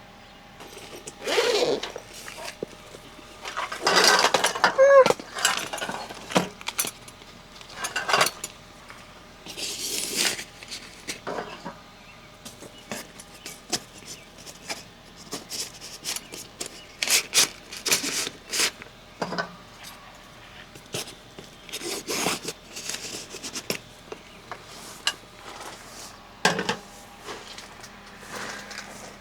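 Objects being handled: a run of separate clinks, knocks and rattles, with a brief voice-like sound about four to five seconds in.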